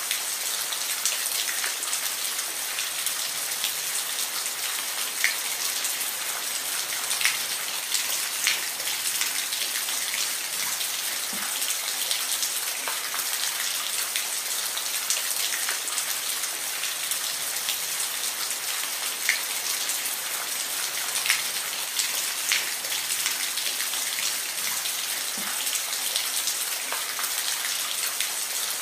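Steady rain falling, an even hiss with sharp drops ticking now and then on a surface.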